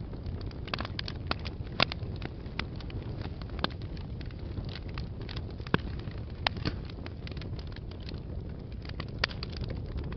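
Fire burning in a fireplace: a steady low rumble of flames with frequent irregular crackles and pops, a few of them louder and sharper.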